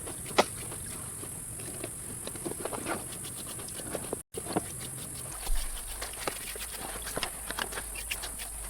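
Irregular light clicks and knocks, scattered and unevenly spaced, over a steady hiss, with a brief complete dropout about halfway through.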